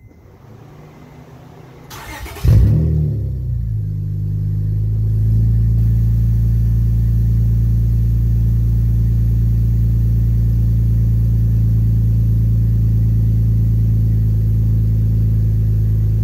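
Acura 3.0 CL's 3.0-litre V6 started with its cat-back exhaust removed. The starter cranks for about two seconds, the engine catches with a loud burst, then settles into a loud, steady idle, unmuffled open exhaust.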